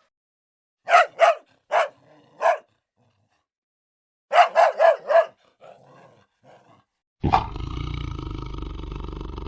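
A dog barking: four sharp barks, then a quick run of four more. About seven seconds in, a long, rough roar from a large animal begins and carries on.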